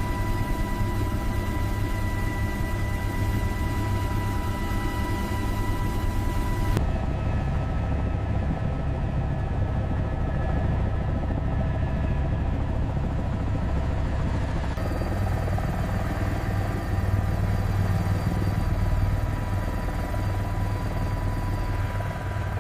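Helicopter running steadily: a continuous low drone with steady whining tones. The tone changes abruptly about seven seconds in and again about fifteen seconds in.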